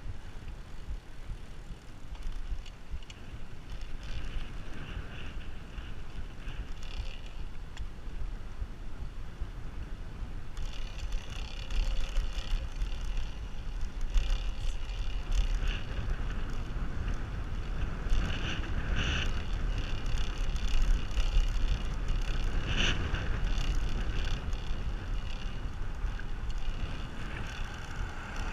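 Wind rumbling on the microphone of a riding bicycle, with road and tyre noise; it grows louder and hissier about ten seconds in.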